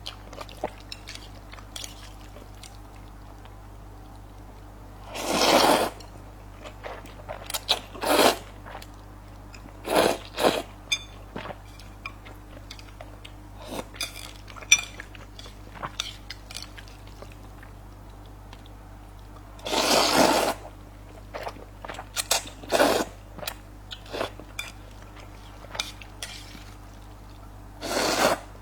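Close-miked eating of soft rice noodles: wet chewing and crunching with small clicks, broken by six louder, half-second to one-second bursts of noodles being slurped.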